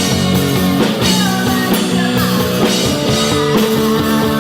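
Loud rock music: a full band with drum kit and electric guitar playing steadily.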